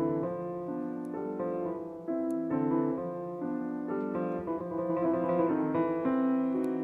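Background piano music: chords and a melody with notes changing about every half second.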